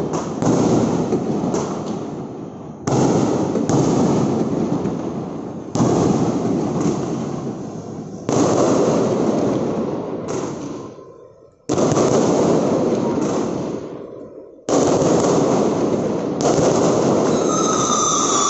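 Aerial fireworks bursting one after another, about a dozen sudden bangs a second or two apart, each dying away in a fading rumble and crackle. Near the end, falling whistles rise over the bursts.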